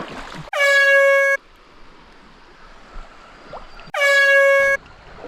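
Two identical blasts of an air-horn sound effect, each just under a second at one steady pitch, about three seconds apart. Faint creek ambience can be heard in the gap between them.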